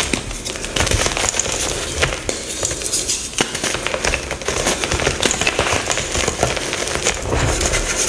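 Dyed gym chalk blocks being crushed and crumbled by hand: a dense, continuous crunching and crackling with no pauses.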